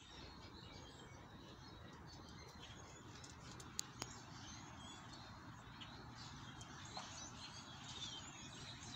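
Faint birds chirping in short scattered calls over quiet outdoor hiss, with a few sharp clicks around four seconds in and one near seven seconds.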